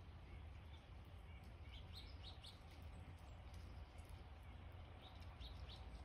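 Faint bird chirps: short, high, downward-sliding calls, three in quick succession about two seconds in and two more near the end, over a steady low rumble.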